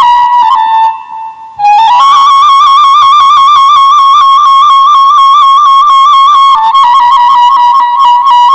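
Background music: a solo flute-like wind instrument playing a long-held melody ornamented with quick trills. It pauses briefly about a second in, then comes back on a slightly higher note.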